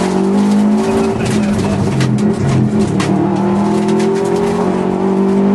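Subaru Impreza WRX STi's turbocharged flat-four pulling hard under full throttle, heard from inside the cabin. Its pitch climbs and drops back a few times as the gears change, with a few sharp ticks about halfway through.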